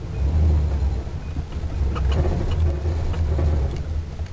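1985 Chevrolet Caprice's small-block V8 running in Park with the choke off, heard from inside the cabin: a low, uneven rumble that swells and dips. The engine runs rough, which the owner puts down to a timing chain that has skipped a notch and valves in need of a valve job.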